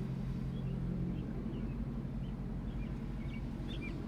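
Vehicle engine idling steadily, with a small bird chirping over it in short, high, repeated calls.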